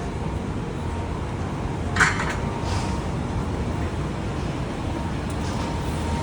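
Steady road-traffic rumble, with a short sharp clack about two seconds in.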